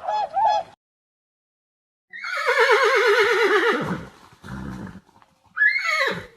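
Horse whinnying: one long quavering neigh that falls in pitch, then a short snort and a second, shorter neigh near the end. A brief two-note honk sounds at the very start.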